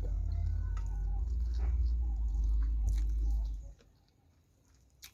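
Close-miked chewing of food, with small wet mouth clicks. A heavy low rumble underneath cuts off sharply about three and a half seconds in, leaving only faint clicks and one sharper click near the end.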